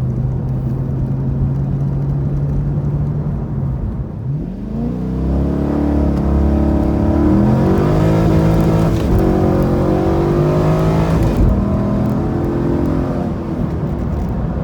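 A 2002 Corvette Z06's LS6 V8 runs steadily at first, then about four seconds in revs hard under full-throttle acceleration. It climbs in pitch through several upshifts before easing off near the end.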